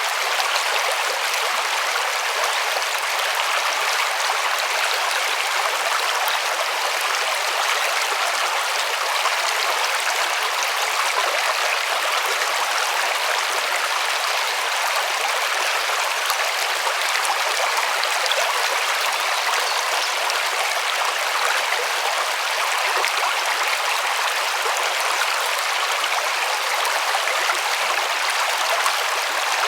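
River water rushing and splashing steadily over stones, an even hiss of flowing water without pauses.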